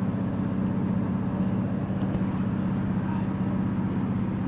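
Train running, heard from inside the carriage: a steady rumble with a low hum.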